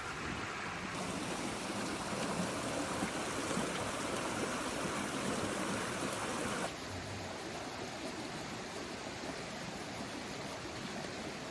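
Steady rain falling, an even rushing hiss that drops abruptly in level about seven seconds in.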